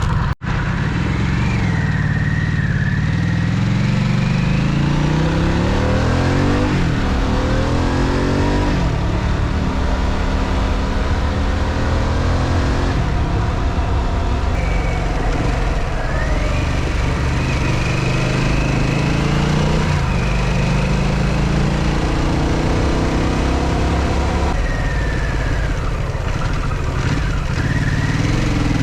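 Harley-Davidson V-twin motorcycle engine under way, revving up through the gears several times, the pitch climbing and dropping back at each shift.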